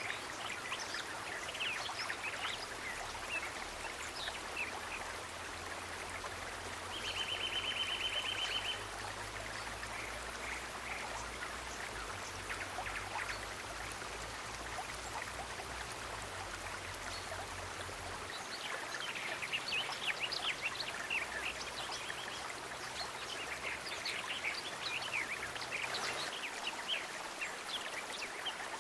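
Water in a stream running steadily, with scattered short high chirps and a buzzy trill about seven seconds in.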